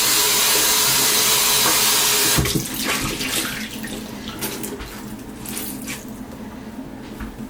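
Water tap running at full flow into a sink, shut off about two and a half seconds in. Softer, scattered noises follow.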